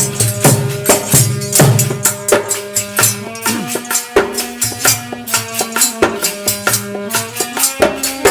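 Instrumental interlude of a folk devotional song: held melody notes over quick, even percussion with a rattling, shaker-like beat.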